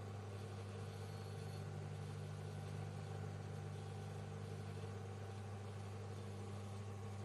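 Microwave oven running: a steady low hum with a few fainter steady tones above it and an even hiss over the top.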